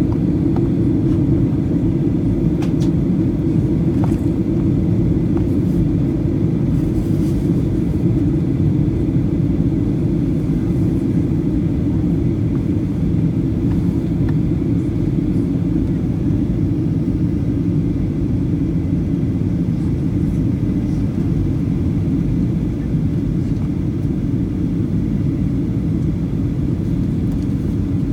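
Steady low cabin rumble inside a Boeing 737-800 as it taxis after landing, with its engines at idle.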